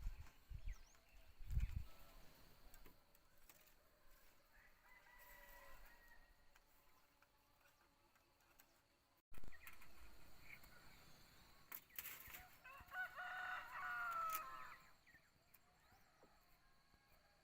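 A rooster crowing faintly, twice: a weak crow about five seconds in and a longer, clearer crow about thirteen seconds in. A few low knocks at the very start.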